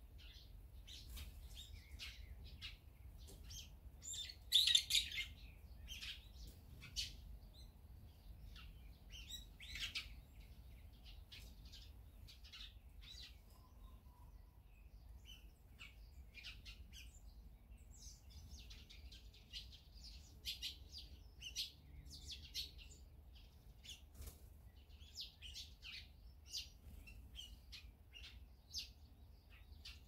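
Small songbirds chirping and calling in short, quick notes. A louder burst comes about five seconds in, and the chirping grows busier in the last third.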